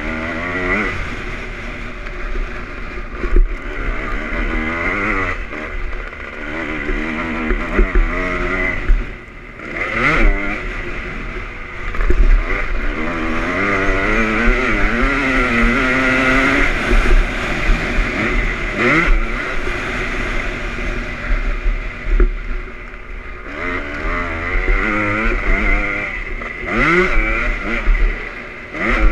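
A 2001 Honda CR250 single-cylinder two-stroke motocross engine revving up and down again and again as it is ridden round the track. The pitch climbs and drops many times, with quick sharp rises about a third, two-thirds and nine-tenths of the way through.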